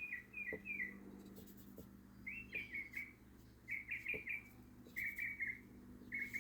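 A backyard bird chirping in short bursts of three to five quick notes, a burst about every second or so, over a faint steady hum.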